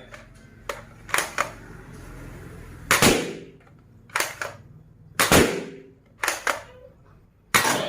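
Toy gun being cocked and fired three times: each time two quick clicks, then a louder shot with a short ringing tail.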